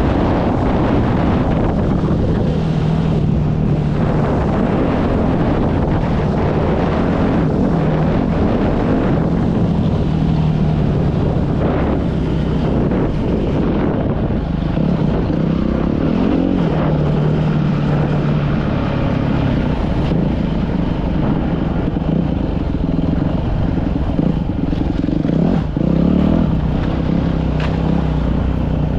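Dirt bike engine running at fairly even revs while riding, with wind rushing over the microphone.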